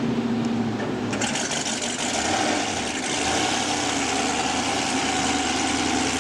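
Racing powerboat engine running steadily, with a broad rushing noise joining it about a second in and holding.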